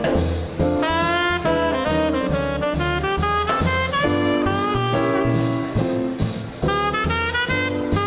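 Small-group swing band playing an instrumental chorus: a saxophone-led horn line with bending, sliding notes over piano chords, drums and a walking bass line.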